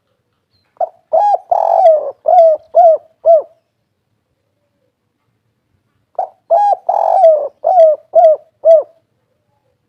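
Spotted dove (tekukur) cooing its 'kuk 3' song twice, two phrases a few seconds apart. Each phrase is a short note, a longer drawn-out coo, then a run of three short coos.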